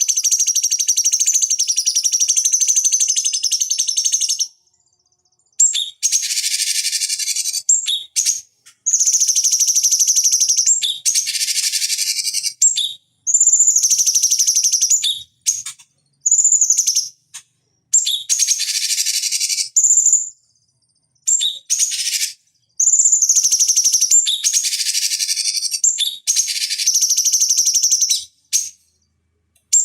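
Cucak cungkok (leafbird) singing a loud, high-pitched chattering song, first in one long unbroken stretch, then in repeated phrases of a second or two separated by brief silences.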